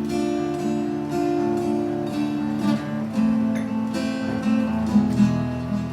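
Acoustic guitar strumming chords with sustained notes ringing between the strokes.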